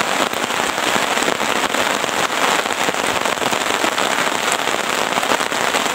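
Steady rain, a dense patter of many drops falling without pause.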